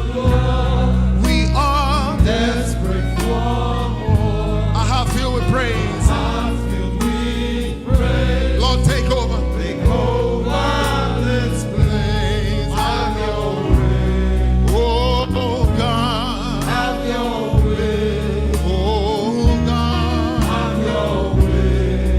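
Gospel choir singing with band accompaniment: voices with vibrato over a steady bass line and a regular drum beat.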